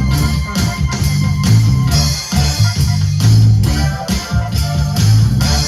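A live band plays an instrumental passage with a steady drum beat and a strong bass line, without singing.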